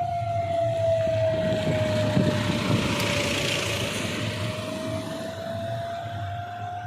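A heavy truck passing at speed on a highway: engine rumble and a swell of road and wind noise that peaks about halfway through. A steady high whistle-like tone that dips slightly in pitch and rises again runs throughout.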